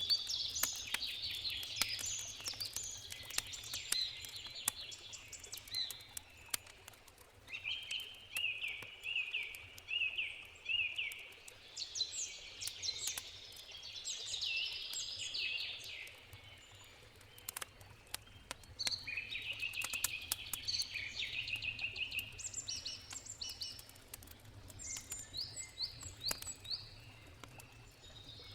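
Wild birds singing in phrases of short repeated chirps, over the crackling and popping of a wood campfire. A steady low rush of river water runs underneath.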